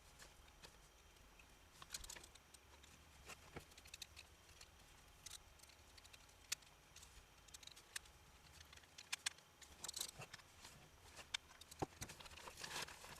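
Near silence with scattered faint clicks and taps, bunched in a few short clusters.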